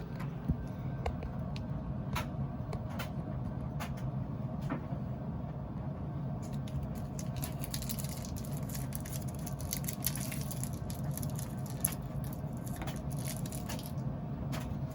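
Irregular small clicks and crackles of an anti-limescale tablet's packaging being opened and handled, busier in the second half, over a steady low machine hum.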